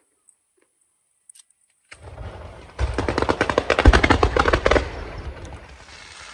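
Fireworks going off: after a near-silent start, a rapid volley of sharp bangs and crackles with one heavy boom in the middle, fading into a rumble near the end.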